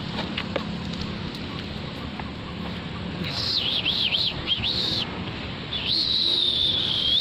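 A bird calling: a quick run of high warbling notes that swoop up and down, then a single long high whistled note that sags slightly in pitch, starting about halfway through.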